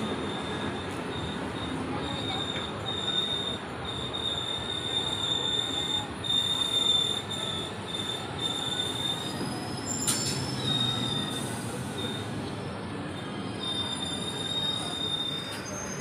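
Electric multiple-unit (EMU) local train running past a platform: a steady rumble of carriages on the track, with a high, thin wheel squeal that comes and goes. A sharp metallic knock sounds about ten seconds in.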